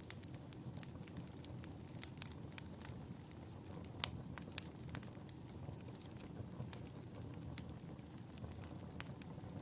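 Wood fire in a fireplace crackling: irregular sharp pops and snaps over a low, steady rumble of burning, with one louder pop about four seconds in.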